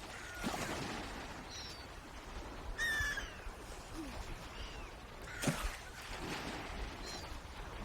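Birds calling outdoors: a handful of short, separate calls, the clearest and loudest about three seconds in, with fainter chirps between.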